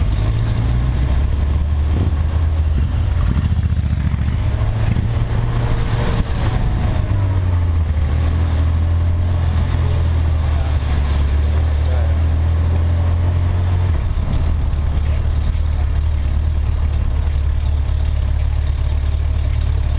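Yamaha XJ600S Diversion's air-cooled inline-four engine running at low revs while the motorcycle creeps along at walking pace, its low note shifting slightly a couple of times. Faint voices of people around.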